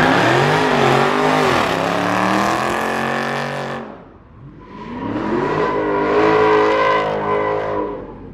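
A car engine revving hard in two loud surges, the pitch climbing and wavering; the first dies away about four seconds in and the second builds again half a second later.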